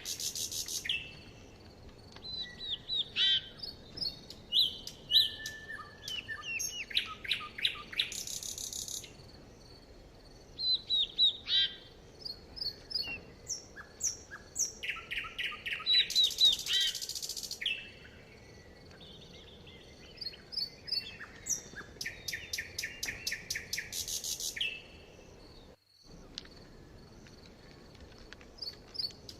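Songbirds singing: bursts of rapid trilled phrases and quick chirps from several birds, overlapping at times, with short lulls between.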